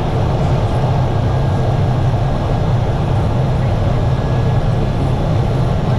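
Propeller aircraft engine running steadily, a continuous low drone with no change in pitch.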